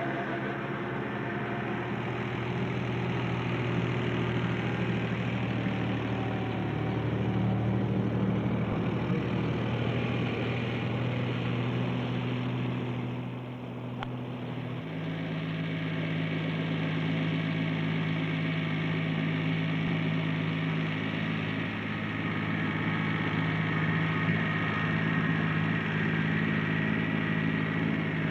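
Ford compact tractor's three-cylinder diesel engine running steadily. Its note shifts lower about halfway through, after a brief dip in level.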